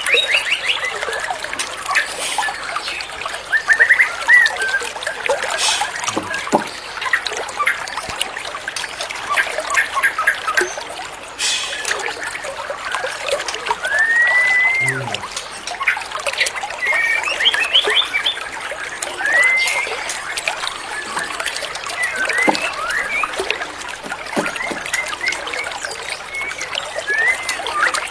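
Water trickling steadily, with a white-rumped shama's short whistled phrases and quick chirp runs repeating over it throughout.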